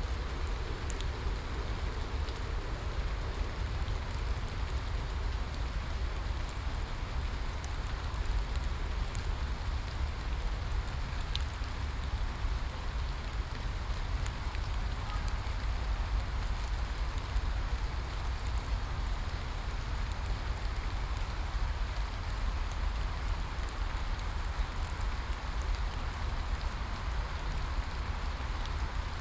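Steady rain falling, an even hiss with a low rumble beneath it and scattered sharp drop ticks.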